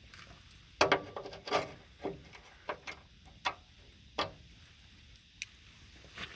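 Locking pliers (vise grips) being adjusted and clamped onto a rusted nut, metal clinking on metal. It comes as about ten irregular sharp clicks and knocks, the loudest pair about a second in.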